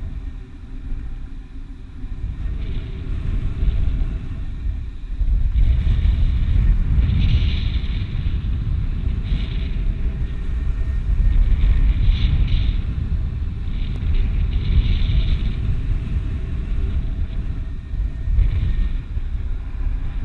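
Wind buffeting the microphone on a slope: a steady low rumble that swells and eases in gusts, with short hissing rushes every second or two.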